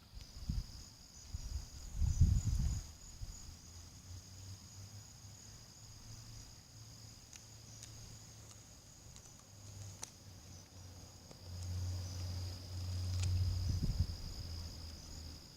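Steady night chorus of crickets, a continuous high trill. There are low thumps about two seconds in, and a low rumble swells up near the end.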